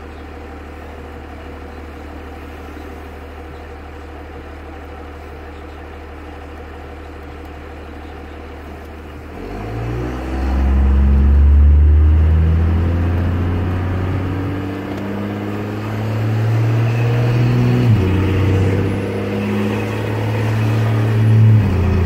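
2001 Dodge Ram 2500's Cummins diesel through a 4-inch AFE exhaust, idling steadily. About nine seconds in the revs rise sharply and the engine pulls hard, its pitch climbing, then stepping down suddenly twice, near the two-thirds mark and again near the end.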